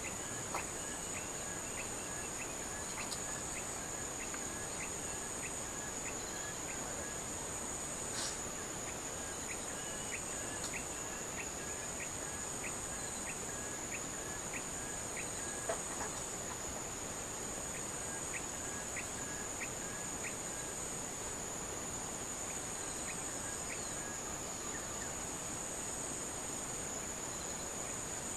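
Insects chirring with a steady high-pitched trill, joined by a lower series of short repeated chirps, about two a second, that stops shortly before the end.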